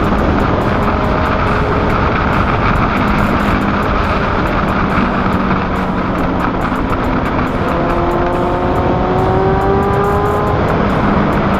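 Motorcycle ridden on the road with heavy wind rush over the microphone and the engine note of its SC Project aftermarket exhaust underneath; about eight seconds in the engine note rises as the bike accelerates.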